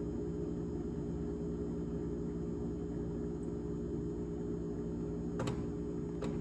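GE top-freezer refrigerator running with a steady low hum made of several tones. Two sharp clicks about a second apart near the end.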